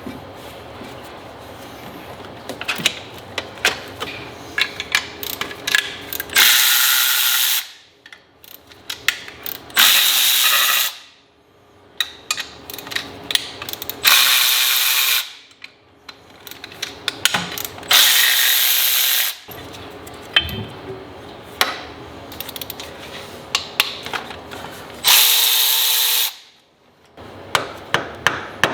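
Mechanic's hand ratchet clicking as fasteners are worked, broken up about five times by a power tool running for roughly a second at a time.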